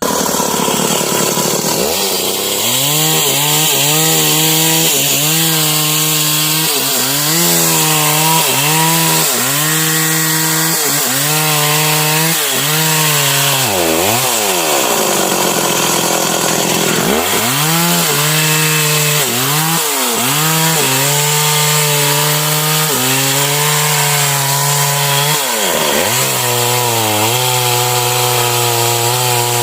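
Stihl MS 381 two-stroke chainsaw cutting sengon wood at full throttle, its engine pitch sagging under load and picking up again every second or so. About halfway through, the revs drop low for a few seconds before it is throttled back up and keeps cutting.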